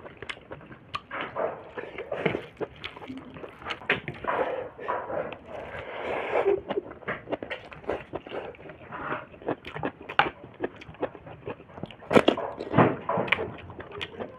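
Close-miked eating sounds of a person eating snails and pork: chewing, smacking and biting, with many irregular sharp clicks and a louder cluster near the end.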